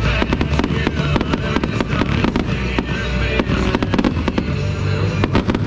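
A fireworks barrage: many rapid, overlapping crackles and bangs from exploding aerial shells, over loud patriotic country music playing on a sound system.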